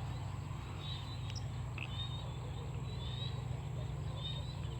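Dusk rice-paddy chorus of small paddy frogs and insects: a steady low pulsing drone, short high chirps repeating about once or twice a second, and a thin high steady insect trill.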